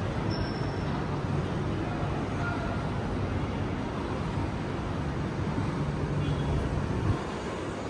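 Steady background din with a low hum underneath and no distinct events; it eases slightly about seven seconds in.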